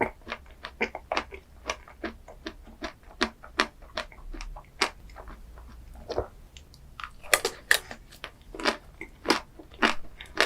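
Close-miked chewing and crunching of a chocolate ice cream dessert, with crisp, irregular crackles a few times a second and a louder run of them about two thirds of the way through.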